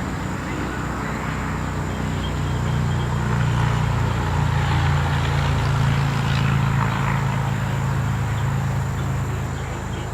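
A motor vehicle's engine running, growing louder toward the middle and easing off near the end, as a vehicle passing by would.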